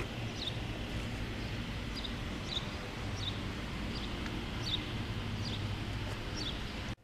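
Outdoor ambience: a steady low rumble with a bird repeating short, high, falling chirps about once a second.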